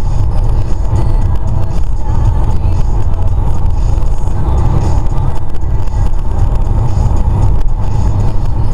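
Steady low rumble of a car driving along: engine and road noise with no sharp impacts.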